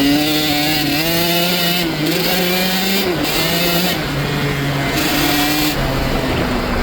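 Dirt bike motor running under throttle, its pitch rising and dipping every second or so, cutting off abruptly near the end.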